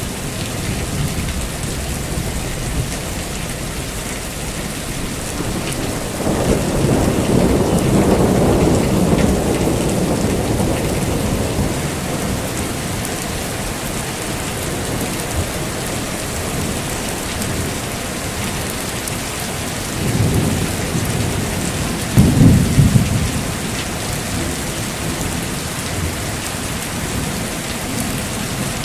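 Heavy rain falling steadily, with thunder rumbling: one long rolling rumble starting about six seconds in and fading over about five seconds, then two shorter, louder low claps around twenty seconds and twenty-two seconds in.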